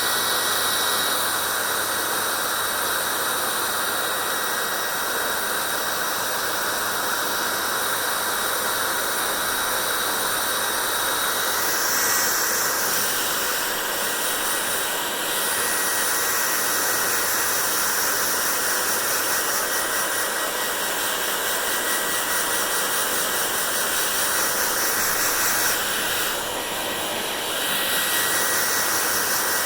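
Hair dryer blowing steadily, a constant rushing hiss of air with a faint high motor whine; the airflow sound shifts briefly about 12 seconds in and again near the end, as if the dryer is moved.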